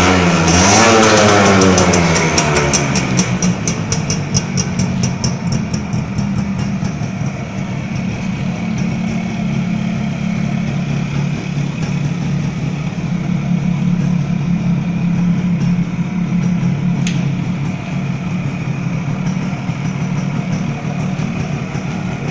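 Suzuki AX100's single-cylinder two-stroke engine revving up and down for the first couple of seconds, then idling steadily. It runs without trouble after more than a year standing.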